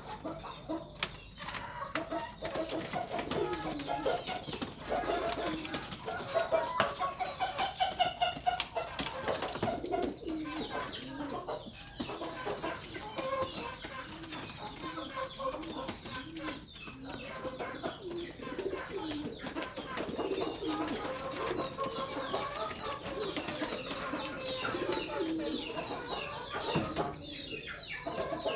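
A flock of domestic pigeons cooing, many birds calling at once in a continuous overlapping chorus, busiest and loudest a few seconds in, with a few sharp clicks.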